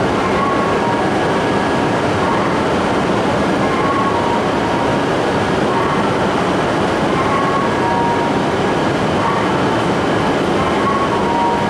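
E5-series Shinkansen train at the platform: a steady rushing hum, with faint short tones every second or two.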